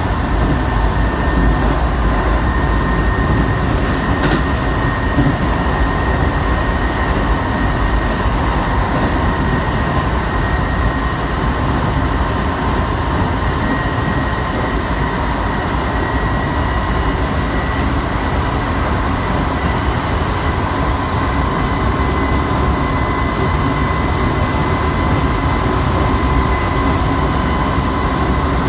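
Cabin running noise of a Shibayama Railway 3500-series electric train under way: a steady rumble of wheels on rail with a faint high whine that edges slowly up in pitch.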